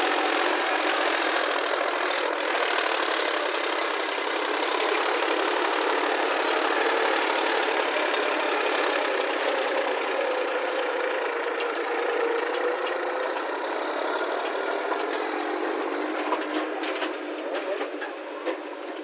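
Heavy diesel machine engine running steadily, its pitch dipping and rising slowly about two-thirds of the way through. A few light knocks come near the end.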